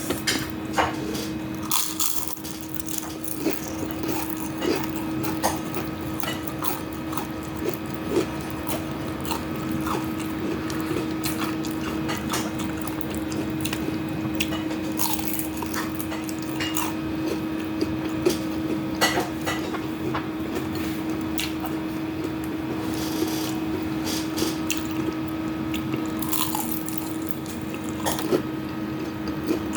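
Close-miked mukbang eating sounds: wet chewing, smacking and biting of deep-fried leftovers, with scattered short clicks, over a steady low hum.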